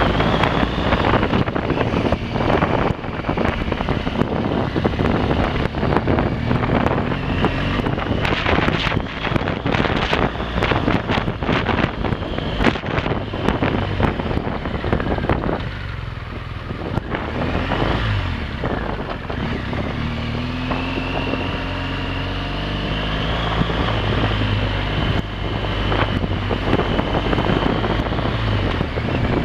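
Motorcycle engine running under way, its pitch rising and falling with the throttle and easing off briefly about halfway through, with wind buffeting the microphone. Frequent short knocks and rattles, thickest about a third of the way in.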